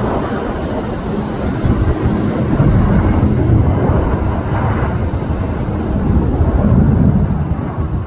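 Airbus A330 jet airliner's engines rumbling as it passes, with wind buffeting the microphone; the roar swells twice and eases near the end.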